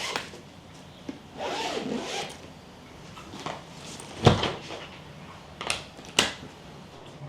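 Close handling sounds of objects being moved: a rubbing, zipper-like swish, then one sharp thump about four seconds in, and two quick clicks near the end.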